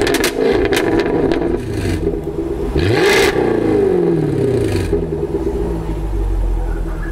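Jaguar F-Type R's supercharged V8 being revved, with sharp exhaust cracks in the first two seconds. About three seconds in, a quick blip sends the revs up, and they fall away over the next two seconds before the engine settles to a steady idle.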